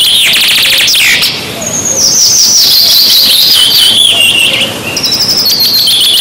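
Birdsong: fast high trills, then a long run of slurred whistled notes stepping down in pitch, then trills again near the end.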